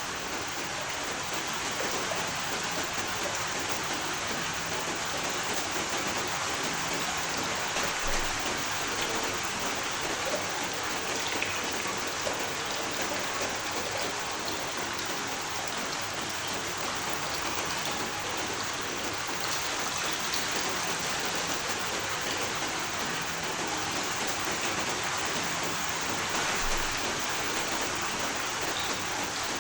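Steady heavy rain falling on a surface, an even hiss of many drops, with a few louder single drops now and then.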